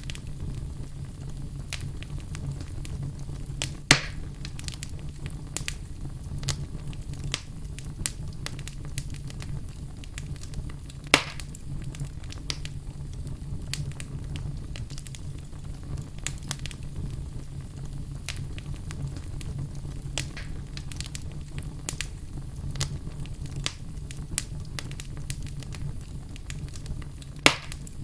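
Wood fire in a fireplace crackling steadily over a low rumble, with many small snaps and three louder pops about four, eleven and twenty-seven seconds in.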